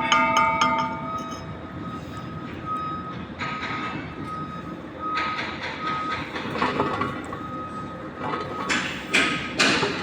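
Rapid ringing metal taps at the start, then an on-off high beeping tone, and near the end a run of noisy scraping strokes about two a second, over a steady low hum from the workshop.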